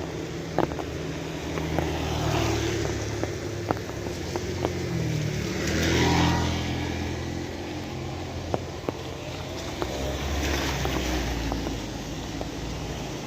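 Steady rain with scattered sharp drips, while motor vehicles pass on a wet road. Their engines rise and fade, and the loudest pass comes about halfway through.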